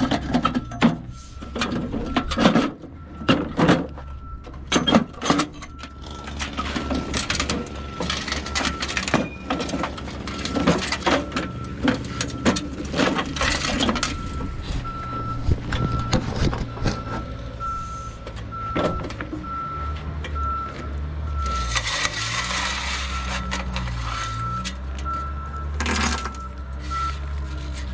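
A motor vehicle's engine running, with a high warning beep that is held steady at first and then pulses on and off from about halfway. Knocks and clanks come and go throughout, and there is a short burst of hiss about 22 seconds in.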